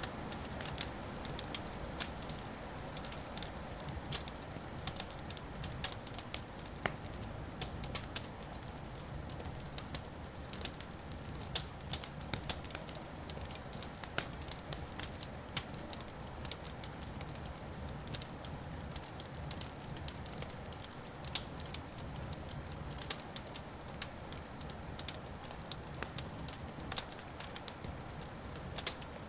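Wood fire crackling: a dense, irregular stream of sharp pops and snaps, a few louder than the rest, over a steady low rumble.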